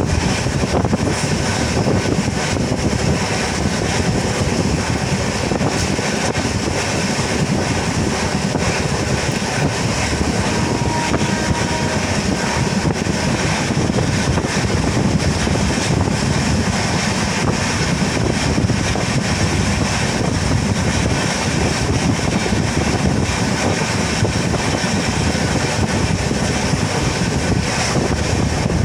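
Moving train running at speed: a steady rumble of wheels on rail mixed with rushing wind.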